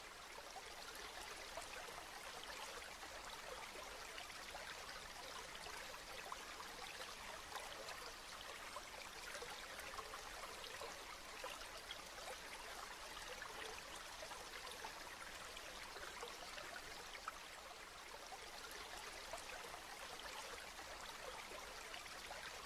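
Steady rain falling, a continuous soft hiss dotted with many small drop ticks.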